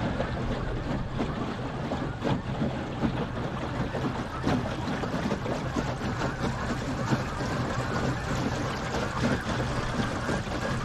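Small electric-outboard boat under way at cruising speed: water washing along the hull over a steady low hum.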